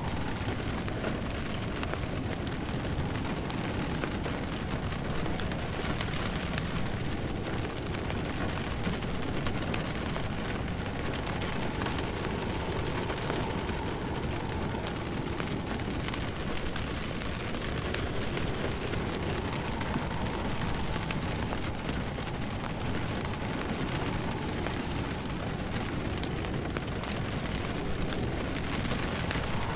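Steady rain pattering, mixed with the crackle of a fire burning in a fireplace.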